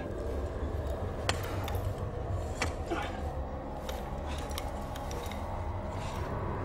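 Stones and gear knocking and scraping as a person crawls through a narrow rocky, sandy tunnel: scattered sharp clicks, the loudest about a second in and again near the middle, over a steady low rumble.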